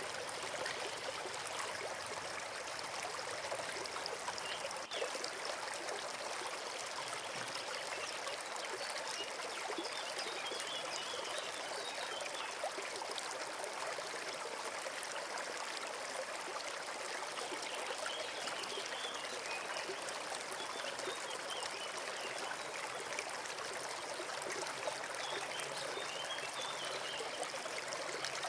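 Forest stream trickling and babbling steadily, with a brief click about five seconds in.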